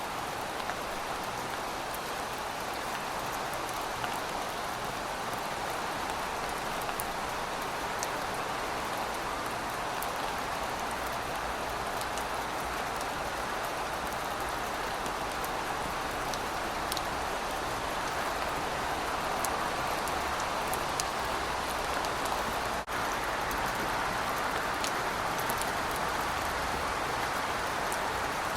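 Steady rain falling on pavement: an even hiss with scattered sharp drip ticks. The sound drops out for an instant about three-quarters of the way through.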